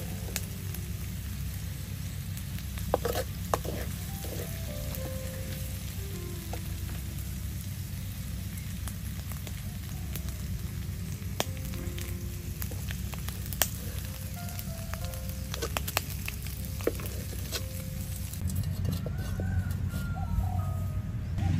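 Hot oil sizzling in a steel wok as chopped chili peppers and garlic fry. A metal ladle clinks sharply against the wok and strainer now and then as the fried pieces are scooped out.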